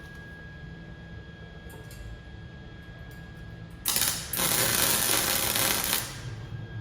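Welding arc crackling in one burst of about two seconds, beginning about four seconds in with a brief break just after it starts, over a steady low hum.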